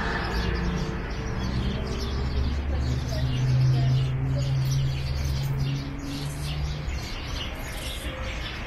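Birds chirping over street noise, with a low steady hum through the middle that fades about two-thirds of the way in.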